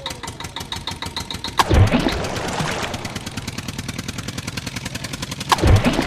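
Vehicle engine running with a fast, even pulsing beat, broken twice by a heavy, booming thud, one about two seconds in and one near the end.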